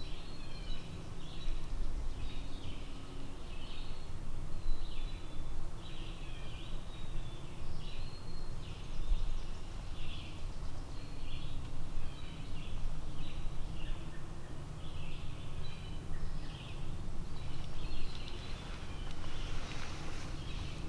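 A songbird singing short, repeated high phrases about once a second, over a steady low rumble of background noise.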